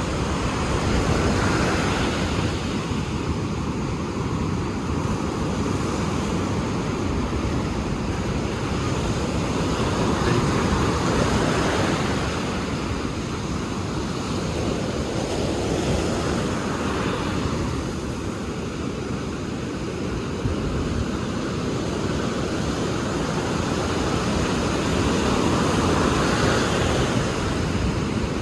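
Ocean surf: waves breaking and washing up over a steady rush, swelling every several seconds.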